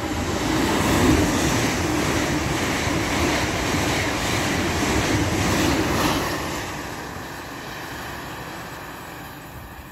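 Hitachi Azuma high-speed train passing close by on the near track: a broad rush of wheels and air that swells within the first second, holds for about five seconds, then fades away.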